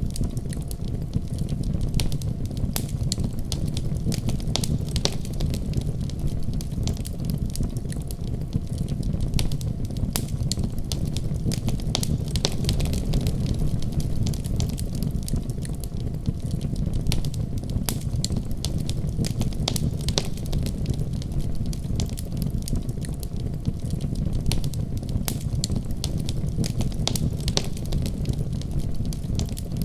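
Wood fire burning steadily: a low rumble of flames with frequent sharp crackles and pops scattered throughout.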